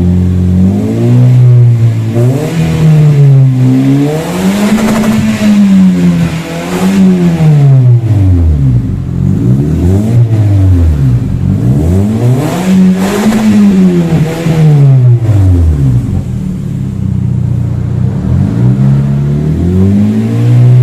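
Toyota Yaris engine revved repeatedly through an aftermarket NDK muffler, stock header and resonator: the pitch climbs and falls back again and again, each blip a second or two long.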